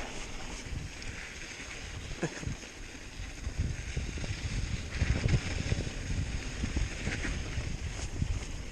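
Hardtail mountain bike rolling over rough dirt trail: wind buffeting the microphone, with a constant low rumble and many small knocks and clatters from the bike. It gets louder and rougher about halfway through.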